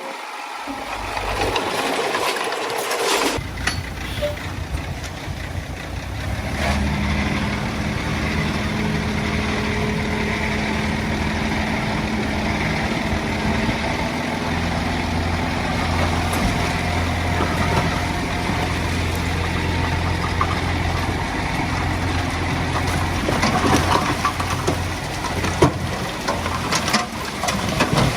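Heavy earthmoving machine's diesel engine running steadily. It grows deeper and louder a few seconds in, and there are a few sharp knocks and clanks near the end.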